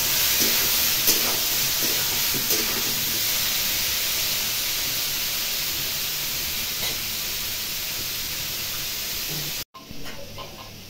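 Cubes of boiled giant taro root sizzling steadily as they shallow-fry in hot oil in a kadai, with a few clicks of the spatula stirring them in the first seconds. The sizzle stops abruptly near the end.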